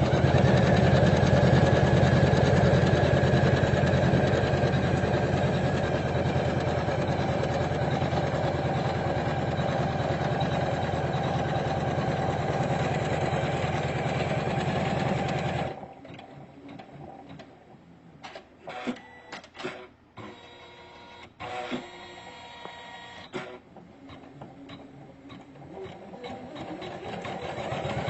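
Usha Janome Memory Craft computerized embroidery machine stitching at a steady speed, stopping abruptly a little past halfway. A few clicks and brief tones follow, then the machine speeds back up near the end.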